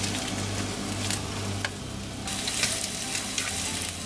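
Sliced pork belly, leeks and enoki mushrooms sizzling in a hot frying pan as they are turned with chopsticks, with scattered small pops. The sizzle grows louder and brighter a little after halfway.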